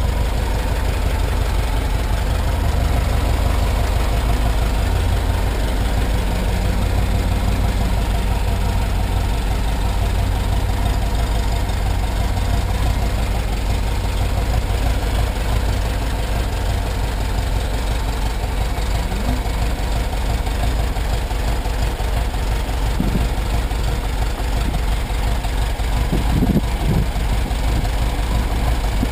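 A 1976 VW Bus's air-cooled flat-four engine idling steadily.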